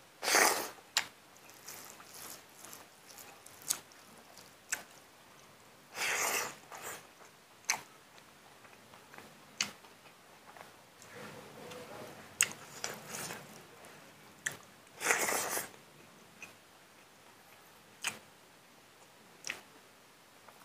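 Close-up eating sounds of a man eating rice, pork and greens by hand: chewing, with many short sharp lip smacks and clicks. Three longer, louder noisy bursts come near the start, about six seconds in and about fifteen seconds in.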